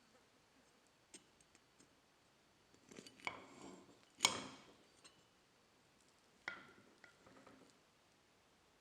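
Small household objects being handled: a few faint clicks, then light clinks and clatter with a sharp ringing knock a little past four seconds in, and another knock with softer clatter about two seconds later.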